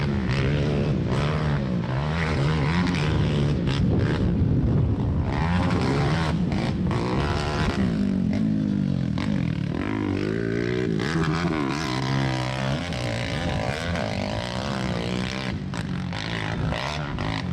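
Several ATV engines racing around a short track, their overlapping pitches rising and falling as the riders rev, back off and accelerate again.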